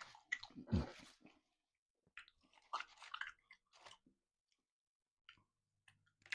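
A person chewing and biting into a chicken Philly sandwich close to the microphone, soft wet chewing in two short spells in the first four seconds.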